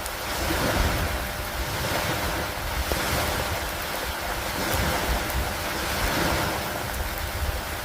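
Steady rain falling, a dense even hiss over a low, fluttering rumble, swelling and easing slowly every couple of seconds.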